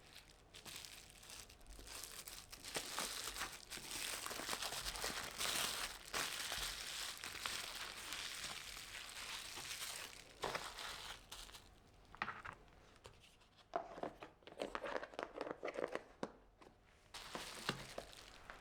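Crinkling and rustling handling noise, dense and continuous through the first half, then coming in short separate bursts in the second half.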